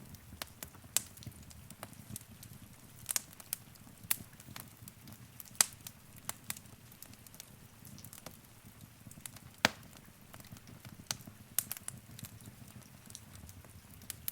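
Wood fire crackling in a fireplace: irregular sharp pops and snaps, the loudest about five and a half and nearly ten seconds in, over a steady low rumble of the flames.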